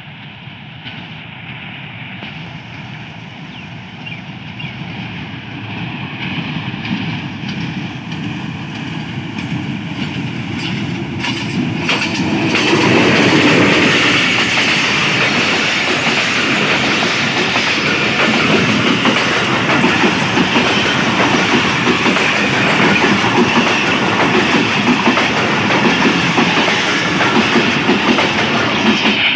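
Passenger train hauled by two HBU-20 diesel-electric locomotives, approaching at about 60 km/h: its running grows steadily louder until the locomotives pass close about twelve seconds in, then the coaches roll by with continuous wheel clatter on the track.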